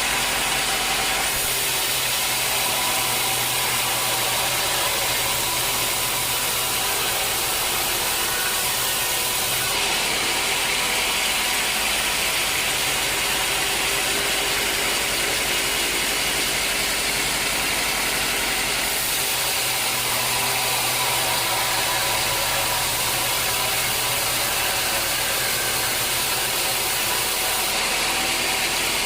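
Sawmill machinery running while sawing a teak log: a loud, steady mechanical noise whose character shifts abruptly several times.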